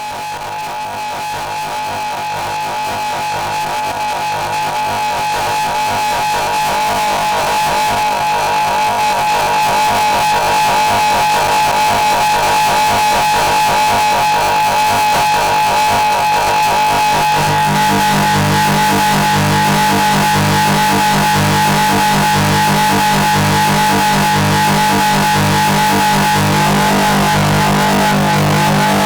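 Experimental noise music: a dense droning texture with a steady high tone, swelling in over the first ten seconds or so. A little past halfway a low, rapidly pulsing layer comes in underneath.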